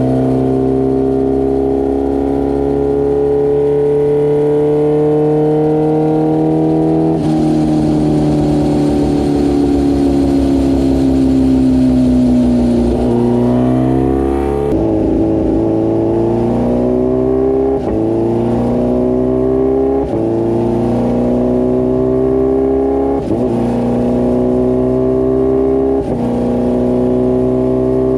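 Kawasaki H2R's supercharged inline-four running hard on a dynamometer. The engine note climbs steadily, drops about seven seconds in and winds down, then revs up again through a series of gear changes, the pitch stepping down after each short climb every two to three seconds.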